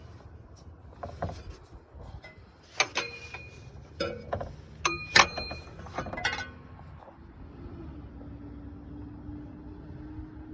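Metal tools and parts clinking and clanking during work on the engine's serpentine belt drive, a run of sharp ringing clinks in the middle, the loudest about five seconds in.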